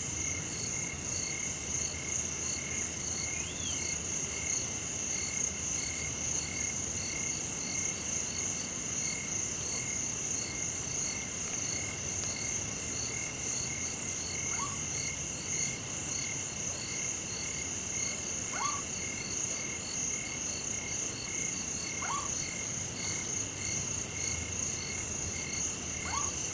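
Night chorus of insects and frogs: a steady high-pitched insect drone with several pulsing trills over it, and a few short rising calls now and then.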